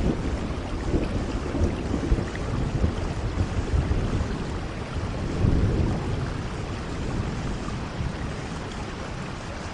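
Steady rainfall hissing evenly, with low rumbles swelling up now and then, the strongest about five and a half seconds in.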